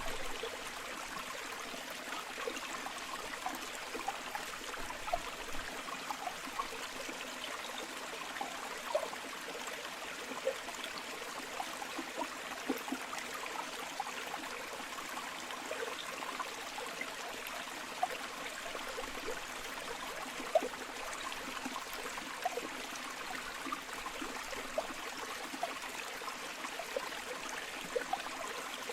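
Flowing river water: a steady rush with many small splashes and gurgles breaking through.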